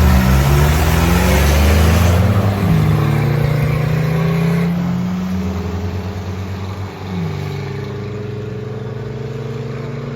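Mud drag vehicle launching hard and accelerating down the track: the engine revs climb, drop back at each of about three gear changes, and fade as it pulls away.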